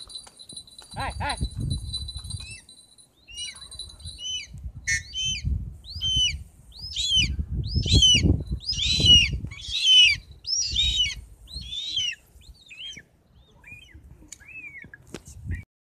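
A bird calling over and over with short, high chirps that curve downward, about two a second. The chirps are loudest in the middle and thin out near the end, over uneven wind rumble on the microphone. A steady high tone sounds through the first four or so seconds.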